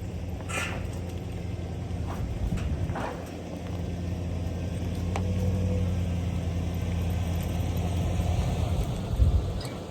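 Tractor engine running steadily at idle, a low even hum, with a few sharp knocks near the start and a couple of thumps near the end.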